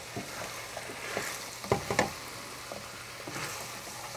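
Ground beef and tomato paste sizzling in a pot over high heat, with a few sharp knocks, the loudest about two seconds in.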